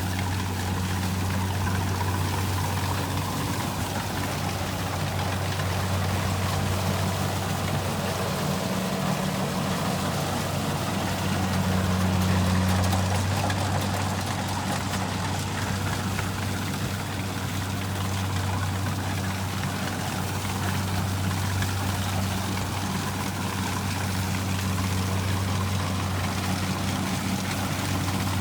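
Rice combine harvester's diesel engine running at a steady speed, a constant low hum with an even rushing noise over it.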